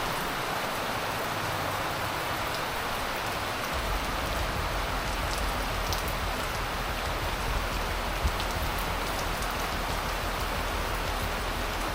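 Heavy tropical rain pouring down, a steady hiss with a few faint drip ticks. A low rumble joins about four seconds in.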